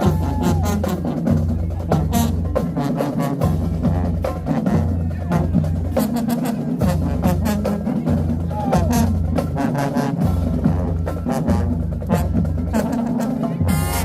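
High school marching band playing: a pounding drumline of bass drums and snares under brass. Just before the end a louder, brighter brass passage comes in.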